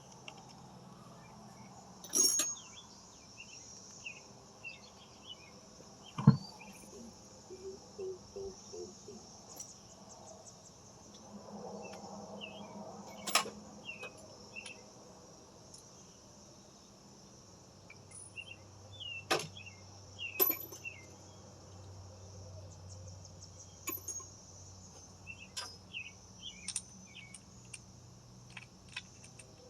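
Steady insect chirring with scattered faint chirps, broken every few seconds by sharp clicks and knocks, the loudest about two, six and thirteen seconds in.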